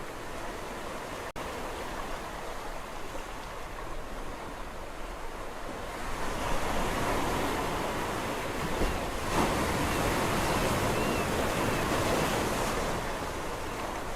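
Sea waves on a shore: a steady wash of surf that swells into a louder breaking wave about six seconds in and eases off near the end. The sound cuts out for a split second about a second in.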